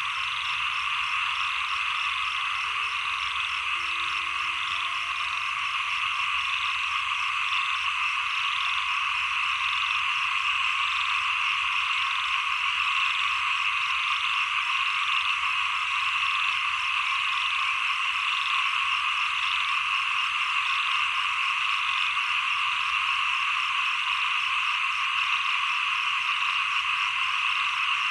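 A dense chorus of many small frogs calling together, a continuous, even wall of calls.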